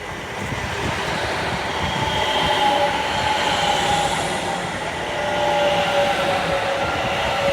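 East Midlands Railway Class 810 Aurora bi-mode train running past under diesel power: rumble of wheels on rail with a steady whine over it, swelling about two and a half seconds in and again about six seconds in.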